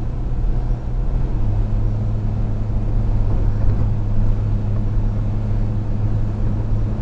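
A 4WD's engine and road noise heard inside the cabin as the vehicle picks up speed on a sealed road, a steady low hum whose note shifts about a second and a half in.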